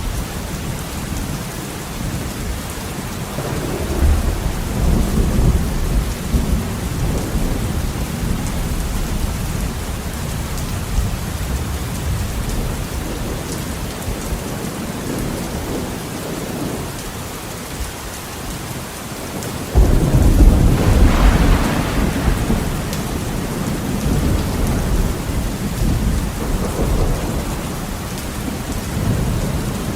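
Heavy rain falling steadily on a window, with rolling thunder. A low rumble swells a few seconds in, and about two-thirds of the way through a sudden, louder thunderclap breaks in and rumbles on for several seconds before dying back to lighter rumbling.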